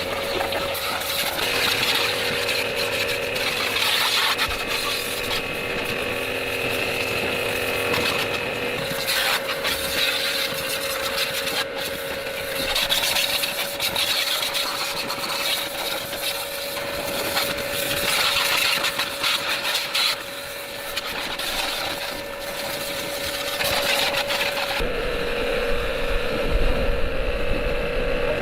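Small motorcycle engine running steadily, with rough scraping or rubbing noise over it. Near the end the note drops and a low rumble comes in.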